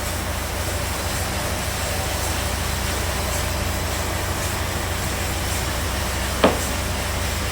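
Sawmill bandsaw machinery running steadily with a low hum and a faint tick about once a second. One short, sharp knock sounds about six and a half seconds in.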